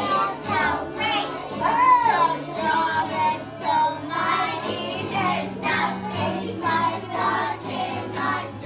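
A group of young children singing a praise song along with backing music.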